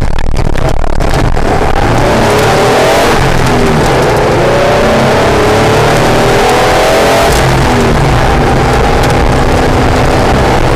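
Acura NSX's V6 engine being driven hard on a race track. Its pitch climbs and falls repeatedly as it revs up and comes off the throttle, over a steady wash of wind and road noise.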